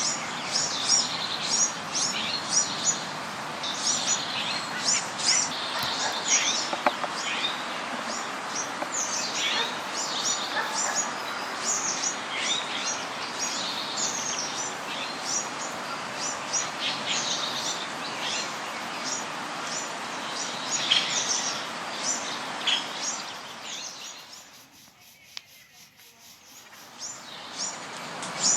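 Many small birds chirping, a dense chorus of short, high, rapid chirps over a steady hiss. Near the end it fades almost away for a couple of seconds, then returns.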